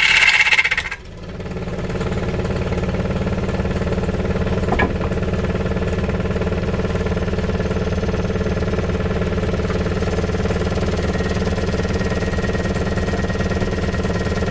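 An engine runs steadily at idle. It follows a loud, high-pitched noise that cuts off about a second in.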